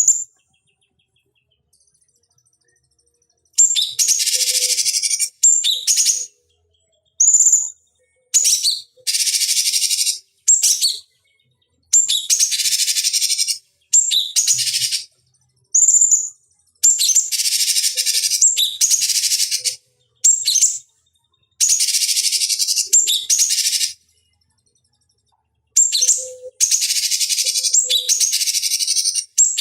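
Cucak cungkok bird calling: a series of high, harsh chattering bursts, each starting with a short clear note. The bursts last from half a second to about two seconds, with short pauses between them and a longer silence near the start.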